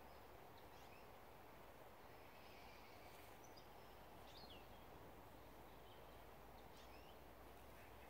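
Near silence in woodland: a faint steady hiss with a few brief, faint bird chirps scattered through it.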